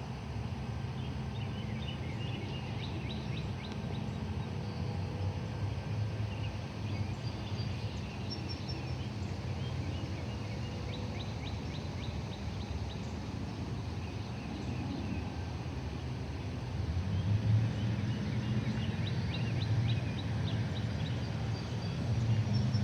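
Small birds calling in short, quick trills of high notes, three times, over a steady low rumble of distant traffic that grows louder near the end.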